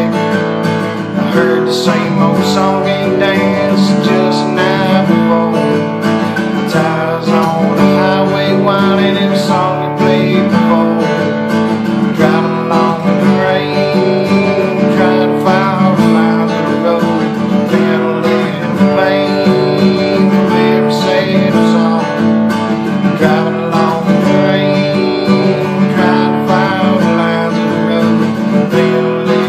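A guitar playing an instrumental song, chords and notes following one another steadily with no singing.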